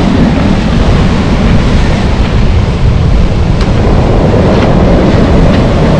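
Strong wind buffeting the microphone in a steady, loud low rumble, over the wash of big sea waves breaking on the shore.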